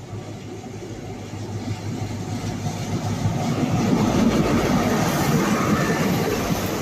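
Class 43 diesel power car of a GWR High Speed Train (InterCity 125) running into a station platform and passing close by, with engine and wheel-on-rail noise. A steady low hum is heard throughout. The noise builds to its loudest about four seconds in as the power car passes, then eases a little as the coaches roll by.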